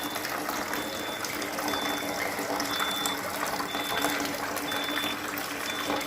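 Water gushing steadily from a pipe or tap as it fills, over an electric pump motor's steady hum, with a short high beep repeating about once a second.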